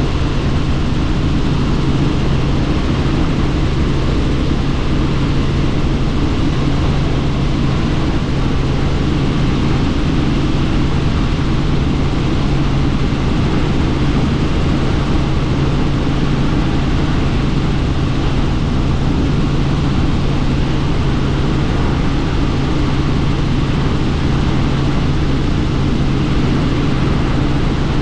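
Helicopter in flight heard from on board: a steady engine and rotor drone with a constant low hum and rushing air noise.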